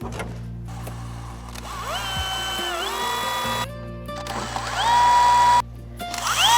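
Power drill running in three short bursts on clear corrugated PVC roof panels, each spinning up to a steady whine; the second burst is the loudest.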